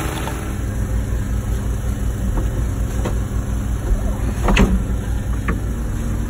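Wacker Neuson ET145 excavator's diesel engine running steadily under work, with a few short sharp knocks, the loudest about four and a half seconds in.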